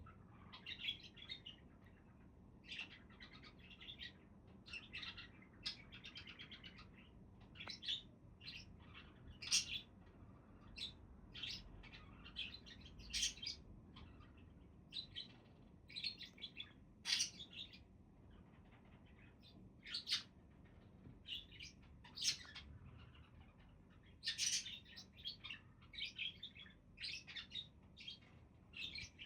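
Budgerigars chirping in quick, scattered calls, busier near the end.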